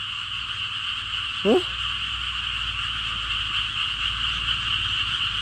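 Frogs calling in a steady, continuous chorus. One short rising squeak sounds about a second and a half in.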